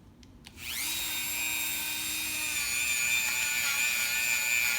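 Dremel rotary tool spinning up about half a second in, then running at a steady high-pitched whine as it cleans corrosion off the wheel's rim and spokes.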